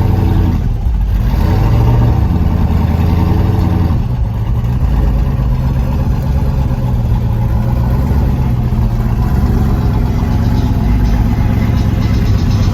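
A car engine running loud and revving, its low exhaust note easing off briefly twice.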